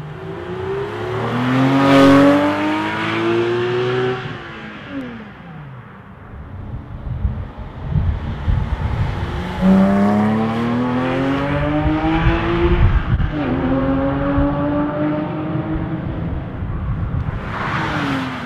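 Porsche 997 GT3 RS 4.0's naturally aspirated 4.0-litre flat-six accelerating hard twice, its pitch climbing steeply. The pitch drops back at a gear change, a little over a minute into the second run, then climbs again.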